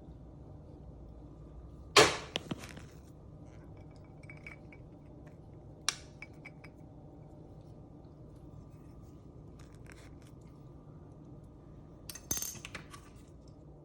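Dishware and utensil clinks while a yogurt-and-wafer snack is put together in a small dish. One sharp clink with a brief ring about two seconds in, another near six seconds, a few faint ticks between, and a cluster of clinks near the end, over a faint steady hum.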